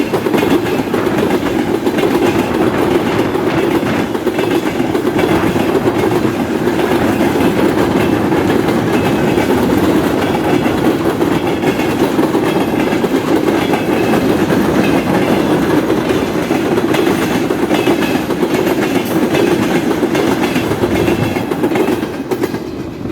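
Freight train wagons rolling steadily past, wheels clacking over the rail joints; the noise drops away near the end as the train moves off.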